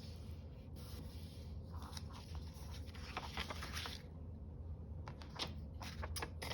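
Paper scraping and crinkling as a page is taken out of a handmade junk journal to reduce its bulk. A few light clicks of paper handling follow in the second half.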